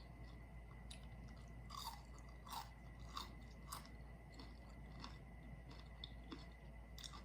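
Faint chewing of crispy fried chicken, with soft crunches and crackles coming every second or so.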